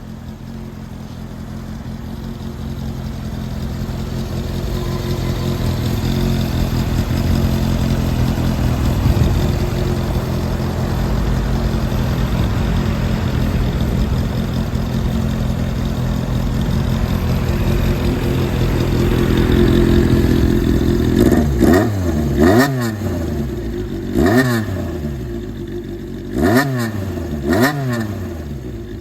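Honda CBX400F air-cooled inline-four engine running through a straight-through, hand-bent 4-2-1 45 mm exhaust. It runs steadily at low revs, slowly getting louder, for about twenty seconds. Then comes a run of quick throttle blips that rise and fall in pitch, about one a second: a low-rev 'call'.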